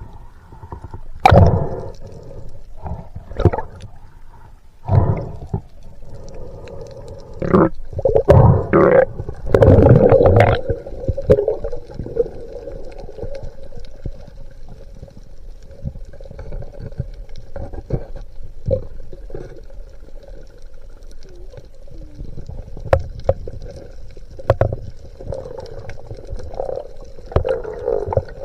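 Muffled underwater sound: water gurgling with irregular knocks and thumps, busiest in the first ten seconds, over a faint steady hum.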